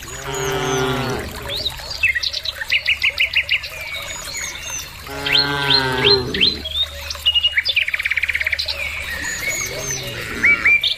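Cattle mooing three times, each call about a second long, the last one fainter. Small birds chirp busily throughout.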